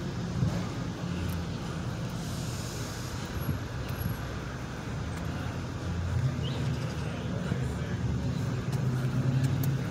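Car engine running low and steady, growing a little louder near the end.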